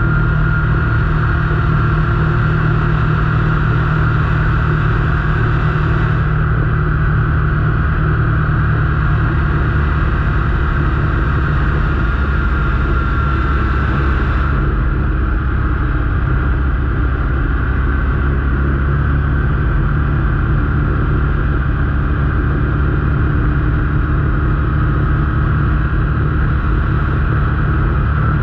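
A motor vehicle's engine running steadily while driving: an even low drone with a faint high whine above it.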